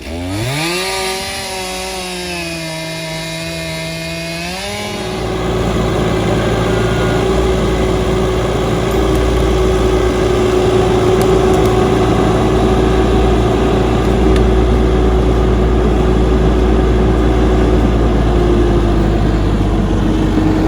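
Stihl chainsaw revving up and running at high throttle while cutting a large fallen tree trunk. About five seconds in, the sound turns steadier and louder as the saw settles into the cut and holds there.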